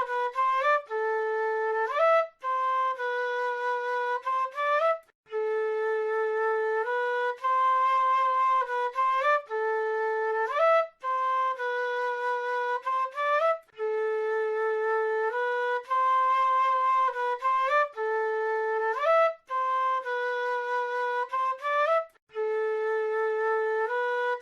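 South American flute playing a slow, repeating melody in its middle register, the notes sliding up into one another. A phrase with a long low held note comes round again and again, with short breaks between phrases.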